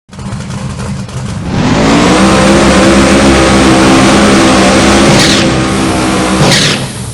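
Supercharged big-block V8 of a Camaro drag car revving up about a second and a half in and holding at high revs, with two short hisses near the end, then dropping back towards idle.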